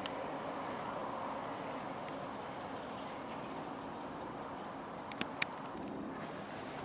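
Faint, steady rumble of a diesel multiple unit running away down the line and slowly fading. A high, rapid chirping at about four pulses a second comes in the middle, and two sharp clicks near the end.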